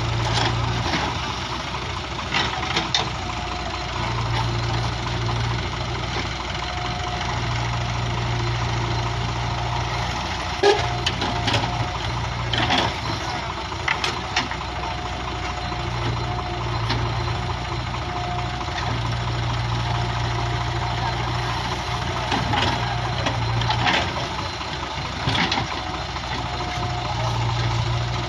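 Heavy diesel engine running steadily at low revs, with scattered sharp clicks and knocks over it.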